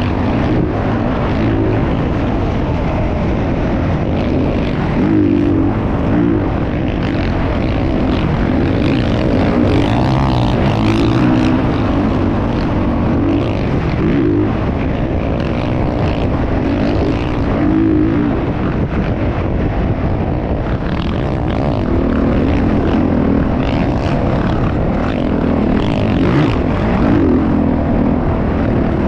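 Dirt bike engine running loud and continuous, its pitch rising and falling as the throttle is worked.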